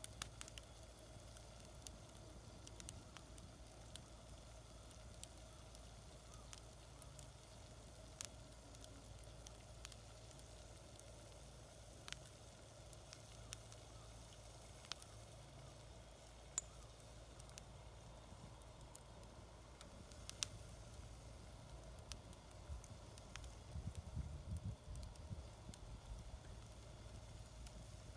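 Small wood fire crackling faintly in a homemade fire pit, with sparse sharp pops over a low hiss.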